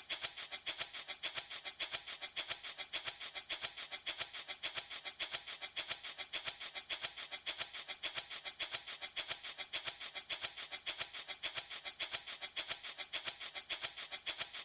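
Handmade baby rattle shaken in a steady, even rhythm, each shake a crisp, high-pitched rattle of beads, repeating several times a second without a break.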